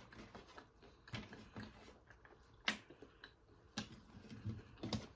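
Chewing fried shrimp, with soft mouth sounds and a few sharp crunches about a second apart.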